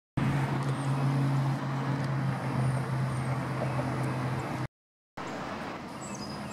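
A motor vehicle's engine running steadily close by, a low, even hum over road noise, which cuts off abruptly about four and a half seconds in. After a short silence quieter background noise follows, with a few high bird chirps near the end.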